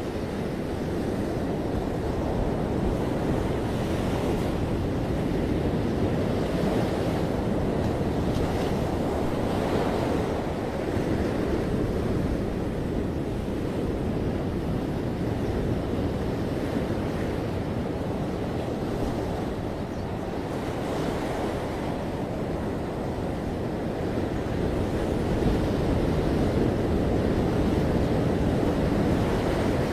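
Ocean surf breaking and washing on a beach: a continuous rushing wash that swells and eases, growing a little louder near the end.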